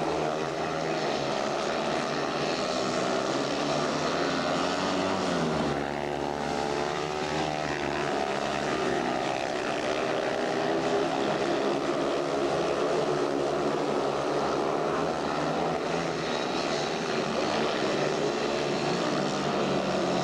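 Speedway motorcycle's 500 cc single-cylinder methanol engine running as it laps the track, its pitch rising and falling with the throttle.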